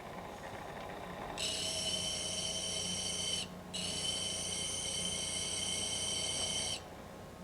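Orthodontic bracket remover held against the spinning ceramic disc of a disc honing machine, squealing high and steady as burrs are honed off the steel. The squeal breaks off once for a moment partway through and stops sharply near the end.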